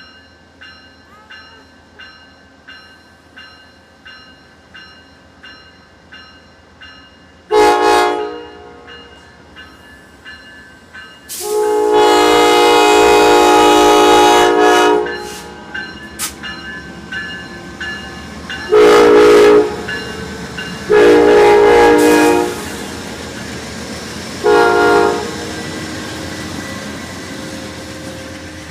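A bell ringing about one and a half times a second, then a train horn sounding five blasts (short, long, short, long, short) as the train comes through, with rail noise building behind them.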